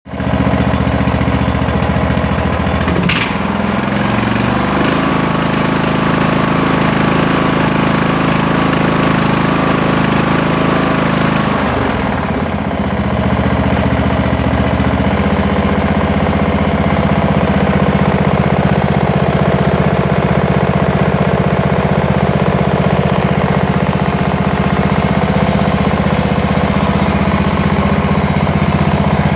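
An 18.5 horsepower small engine running, its speed shifting a few seconds in and again around the middle before settling into a steady run, with a sharp click about three seconds in.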